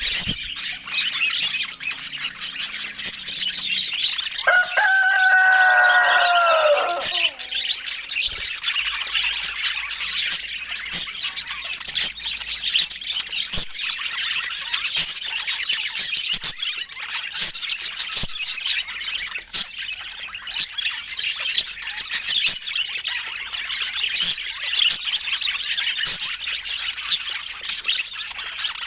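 Budgerigars chattering and warbling, a dense stream of quick chirps. About four and a half seconds in, a louder, lower call with a slightly falling pitch lasts about two and a half seconds.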